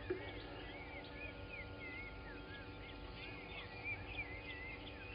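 Morning bird chorus at a bushveld waterhole: many birds giving short whistled notes that rise and fall, overlapping continuously. A sharp knock sounds just after the start, with two fainter ones near the end.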